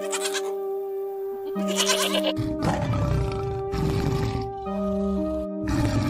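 Background music of held notes, with goats bleating over it near the start and again about two seconds in; a deeper, rough noisy sound follows for about two seconds in the middle.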